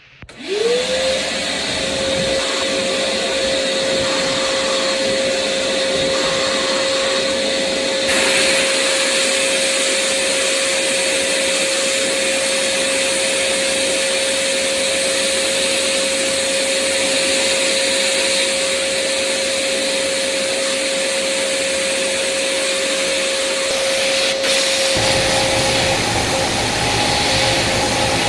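Sandblast cabinet switching on, its vacuum motor spinning up to a steady whine, then from about eight seconds in the hiss of the air-driven blast gun blasting abrasive onto a part. Near the end a low rumble starts underneath, the air compressor that feeds the blaster kicking on.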